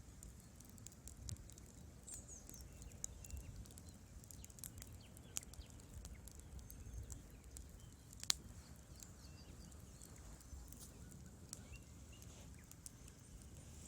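Wood fire crackling in a fireplace: faint, irregular sharp pops and snaps over a low rumble, the loudest pop about eight seconds in.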